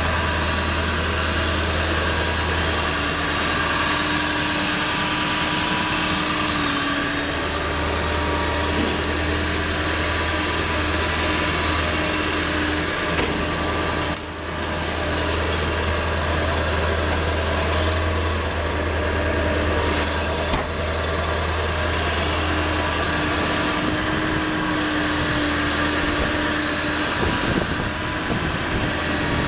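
2000 Ford F-450's 7.3L Power Stroke V8 diesel idling steadily, with a brief dip in level about halfway through.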